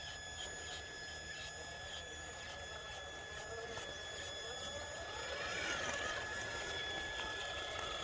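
Scale RC tow truck's motor and geared drivetrain whining steadily as it pulls a load in low gear, with small clicks; about two-thirds of the way through the whine rises and falls in pitch and gets a little louder.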